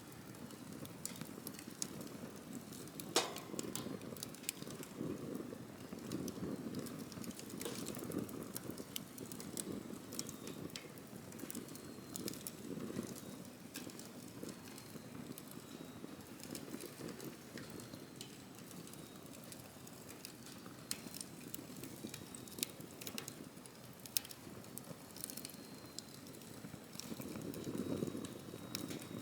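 Wood campfire crackling: irregular sharp pops and snaps over a low, surging rush of burning flames, with one louder pop about three seconds in. Near the end a faint, thin, high whistle comes in and holds steady.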